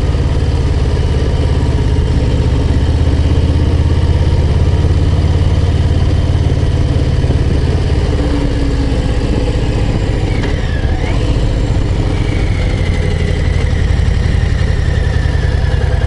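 Harley-Davidson Low Rider ST's V-twin engine running steadily under load on a mountain climb, heard from on the bike, its note easing slightly about two-thirds of the way through.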